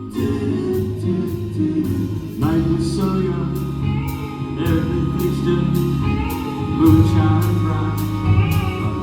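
Live pop band playing with vocal harmonies over a steady beat, the short high percussion strokes coming about twice a second.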